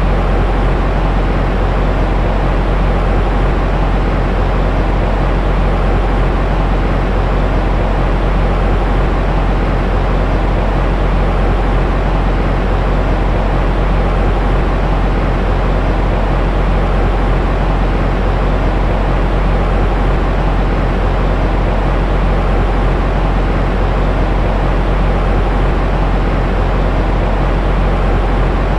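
Steady, loud white noise for soothing a baby to sleep, weighted toward the low end so it sounds like a deep, even hiss with no change.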